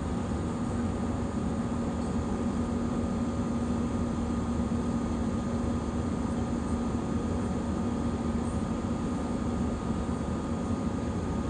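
Steady drone of an airliner cabin in flight: engine and rushing-air noise with a steady hum, unchanging throughout.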